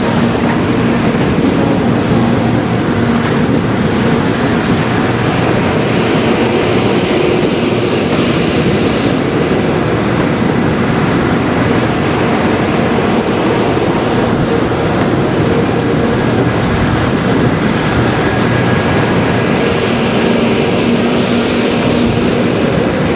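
923 series Doctor Yellow inspection Shinkansen (set T4) rolling slowly over a level crossing: a steady, loud rumble with a low hum that fades in the middle and returns near the end.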